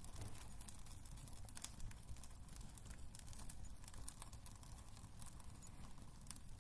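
Wood fire crackling in a fireplace: a low steady rumble of burning with frequent small irregular pops and snaps.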